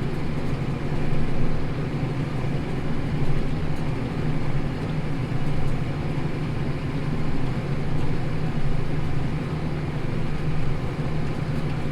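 New Holland tractor's diesel engine running steadily under load while pulling a plough, heard as a constant low drone from inside the cab.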